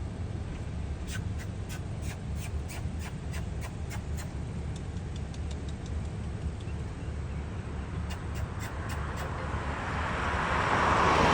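Steady low traffic rumble, with two runs of quick sharp clicks, about four a second, and a vehicle passing close by, swelling up near the end.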